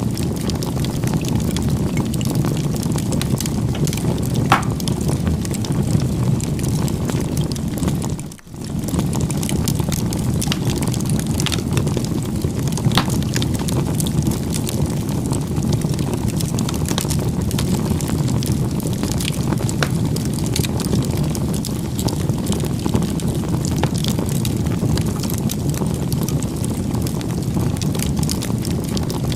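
Bonfire burning: a steady low rush of flames with scattered sharp crackles and pops from the burning wood, briefly dropping away about eight seconds in.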